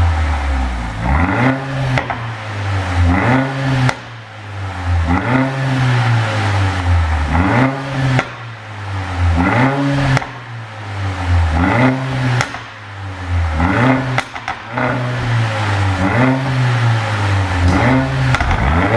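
Mercedes-AMG GLA45's turbocharged 2.0-litre four-cylinder revved in quick blips over and over, about once a second, its pitch rising and dropping back each time, with sharp pops and crackles from the exhaust as the revs fall, from a pop-and-bang tune.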